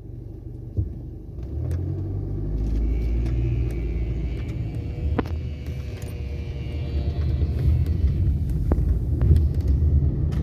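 Low, steady rumble of a motor vehicle's engine, building up about a second and a half in and then running on, with a few faint clicks over it.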